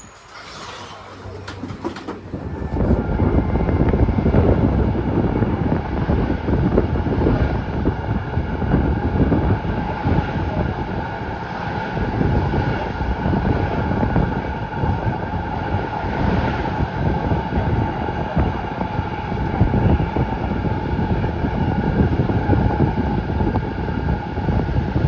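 Z3 class tram running along its tracks, heard from on board: a loud rumble and rattle of wheels on rail that builds up about two seconds in and then holds steady, with irregular knocks from the track.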